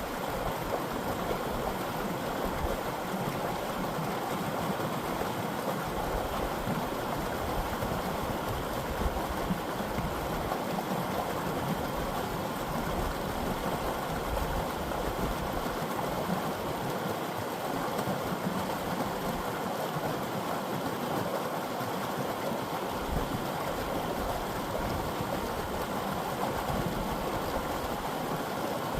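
Creek water flowing, a steady rushing sound.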